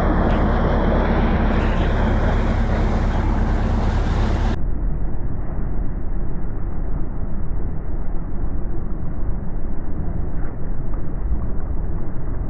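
A ship's engine running steadily, its propeller churning the water, with wind on the microphone. The sound turns duller about four and a half seconds in.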